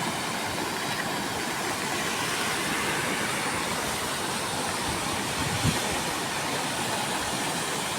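Steady rushing of a river in flood, its swollen water running fast, with one brief low bump a little past the middle.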